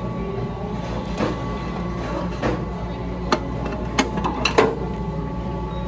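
Revolving sushi restaurant room noise: a steady low hum with about five sharp clicks and clatters scattered through it, the loudest pair near the end.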